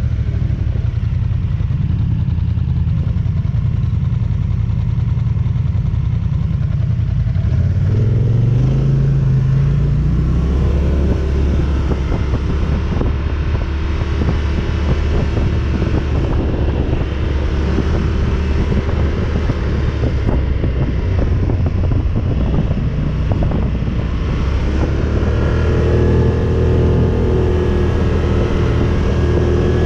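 ATV engine running while riding, revving up about a quarter of the way in and then holding a steady pitch, with a slight rise again near the end.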